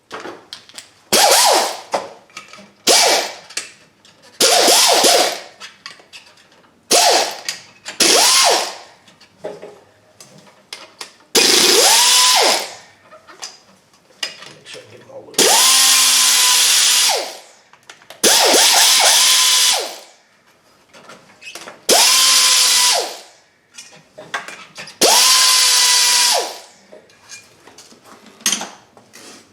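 Cordless power tool run in about ten short bursts while taking out bolts. Each burst is a motor whine that climbs quickly in pitch, holds and winds down, and the later bursts last longer, up to about two seconds. Light clicks of tool and metal come between the bursts.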